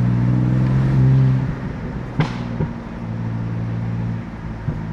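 BMW F80 M3's S55 twin-turbo inline-six running steadily while driving. The note quietens about a second and a half in, with a single sharp click just after two seconds, then settles into a lower steady drone.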